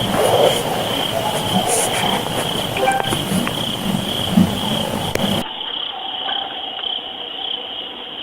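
A steady high-pitched pulsing chorus of calling insects, like crickets, over a hissy low rumble with a few soft knocks. About five seconds in, the lowest and highest sound drops away abruptly, leaving the chorus thinner and filtered.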